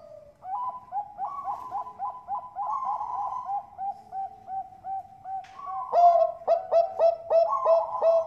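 Zebra dove (perkutut bangkok) cooing: a fast run of short staccato coo notes, about three a second. The notes grow louder and fuller about six seconds in.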